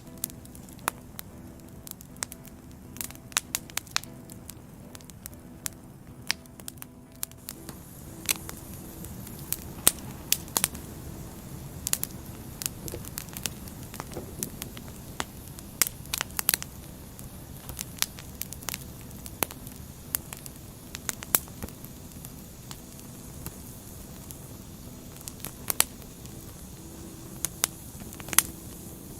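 Burning firewood crackling: irregular sharp pops and snaps, several a second at times, over a steady low hiss of the fire.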